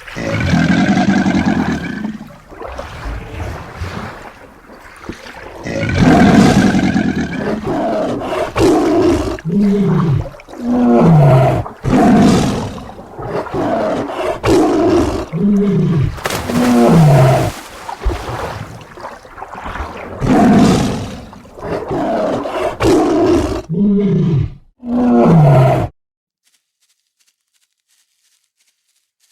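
Tiger roaring and growling in a long series of loud calls, many of them short and falling in pitch. The calls cut off suddenly near the end, leaving silence.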